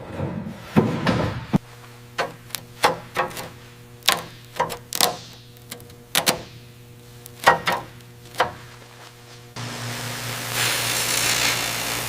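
A series of sharp, irregular knocks and clatters, like tools or metal parts being handled and set down, over a faint steady hum. Near the end a power tool starts abruptly and runs steadily.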